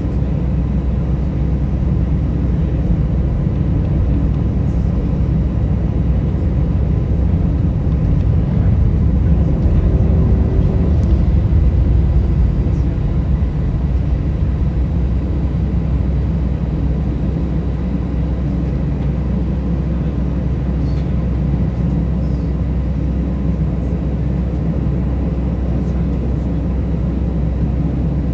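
Steady low rumble of an Airbus A320's engines and airflow heard inside the cabin, with faint steady tones above it, swelling a little about eight to thirteen seconds in.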